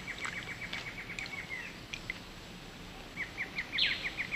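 A bird singing a rapid trill of short, evenly spaced notes, about eight a second, over forest ambience. The trill stops about one and a half seconds in and starts again about three seconds in, with a short harsh rasp near the end.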